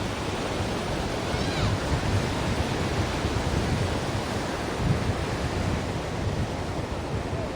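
Ocean surf washing steadily: an even, unbroken rush of noise, heaviest in the low end, with no single wave crash standing out.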